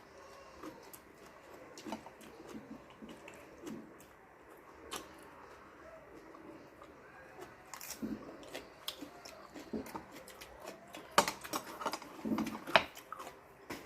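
Eating sounds: chewing and mouth noises with scattered small clicks of utensils, and a few sharper clicks near the end.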